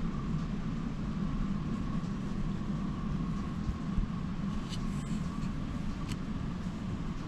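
Model train running on a display layout: a steady low rumble with a faint motor whine, and a few light clicks from the track about five and six seconds in.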